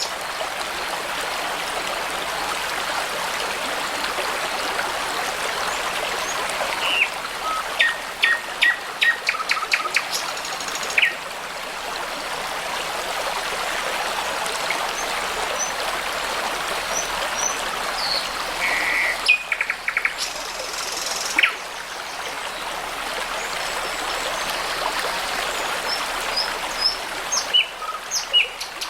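Babbling brook running steadily, with songbirds singing over it in short bursts of rapid repeated high notes, about a quarter of the way in, again past the middle, and near the end.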